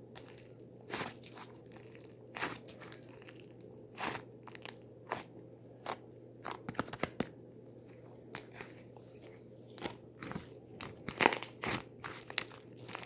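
Close-up, irregular crisp crunching: sharp snaps come singly and in quick clusters, the loudest group about eleven seconds in.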